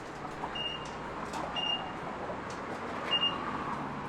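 A self-serve car wash bay's control box beeping: three short, high beeps at the same pitch, each lasting a moment, with a steady machine hum underneath.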